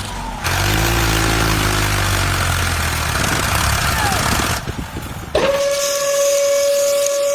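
A steady rushing hiss over a low rumble, then after a short break a single steady whistle-like tone that sounds from about five and a half seconds in and is held.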